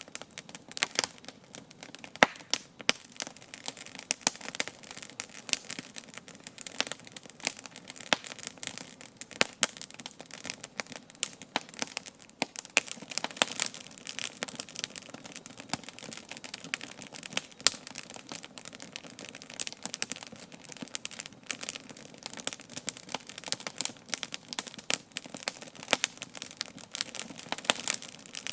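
Wood campfire burning, crackling and popping with many irregular sharp snaps over a steady hiss.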